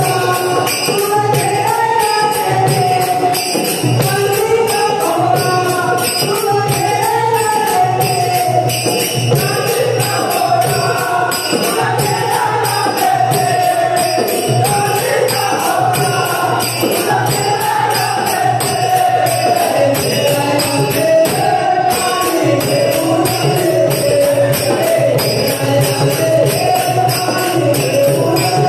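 Devotional Marathi abhang sung with a wavering melody, over a fast, steady jingling beat of small metal percussion and a low drum pulse.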